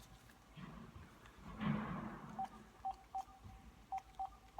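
Phone keypad tones as a number is dialed: five short beeps at an irregular pace in the second half, after a brief soft noise.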